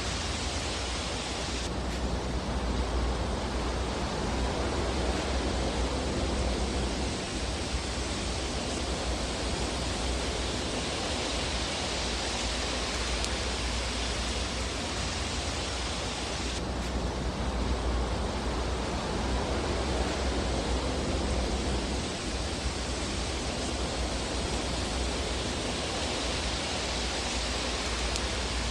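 Steady rushing noise of a fireplace fire: an even hiss over a low rumble, with hardly any distinct crackles. It swells and eases in a pattern that repeats about every 15 seconds, with an abrupt shift about two seconds in and again past halfway.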